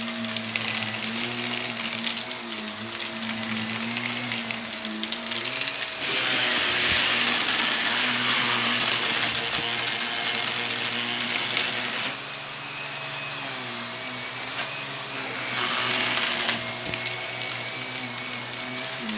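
Vacuum cleaner running, a steady motor hum whose pitch shifts slightly, under the crackling crunch of debris being sucked up. The crunching grows louder about six seconds in for several seconds, and again briefly near the end.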